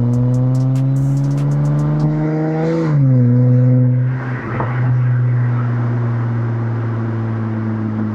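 2020 Acura TLX's 3.5-litre V6 exhaust through a custom catback with Vibrant Ultra Quiet resonators in place of the stock resonators and mufflers, heard from a microphone on the rear bumper. The engine pulls with its pitch rising slowly, drops in pitch at an upshift about three seconds in, then settles into a steady lower drone while cruising.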